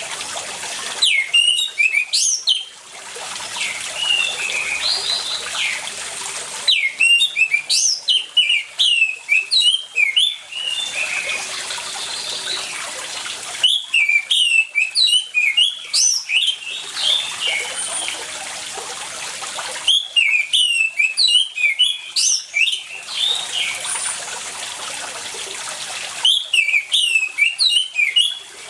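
Orange-headed thrush (anis merah) singing in five bouts of fast, varied, high phrases, each a few seconds long, over a steady rush of running water that fills the gaps between bouts.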